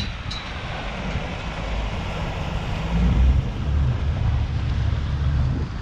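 Low engine rumble of a ferry coming in, growing stronger about halfway through, with wind noise on the microphone.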